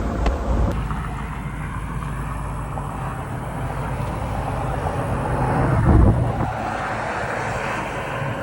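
Car driving: steady road and engine noise, with a louder swell about six seconds in.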